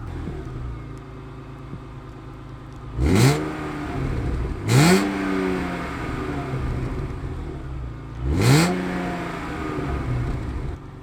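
BMW E36 M3's straight-six engine at idle, revved hard three times: each rev is a quick climb in pitch that falls back to idle. The first two come close together and the third a few seconds later.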